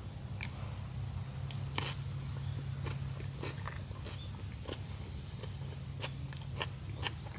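A person biting into and chewing a thick ham, tomato and lettuce sandwich: a scattered run of small crunching clicks over a steady low hum.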